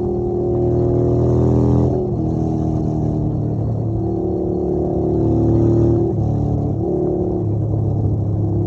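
Motorcycle engine running steadily under way, its pitch stepping down and up a few times as the revs change.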